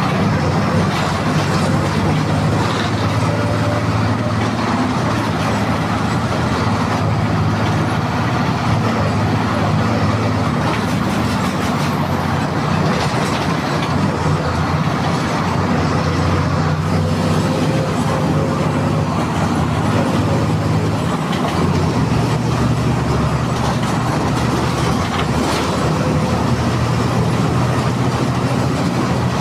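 MWM 6.12 TCE 7.2-litre turbo-intercooled six-cylinder diesel of a VW 17-230 EOD bus running under way, with rattling and road noise over its steady drone. The engine note changes about two-thirds of the way through.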